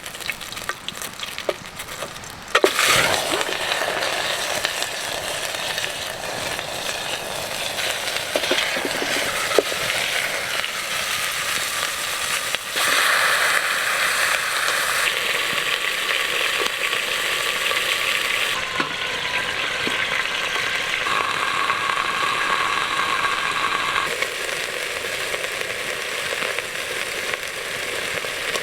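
Chicken frying in hot fat in a pan over a campfire: a steady sizzle that starts loudly about two and a half seconds in and swells again about halfway through, with a few small crackles before it.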